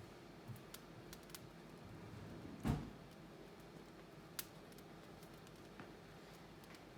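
Newly lit wood fire in a fireplace, crackling faintly with scattered small pops, one louder knock about two and a half seconds in and a sharp snap a couple of seconds later.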